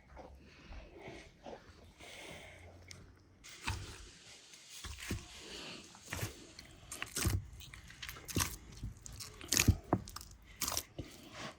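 Hands kneading a sweet yeast dough of milk, eggs and flour: irregular wet slaps and presses, quiet at first and getting louder from a few seconds in.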